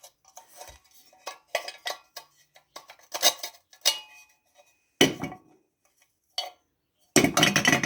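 Small metal engine parts and tools clinking and clattering during hand assembly of a small engine, many light clinks with a louder clatter about five seconds in and a longer run of rattling near the end.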